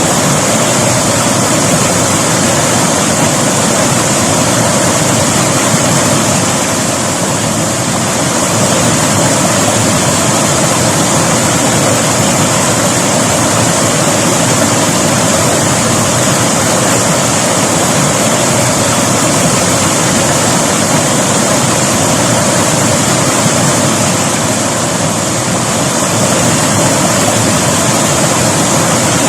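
River water rushing over rocks in a steady, loud, unbroken flow.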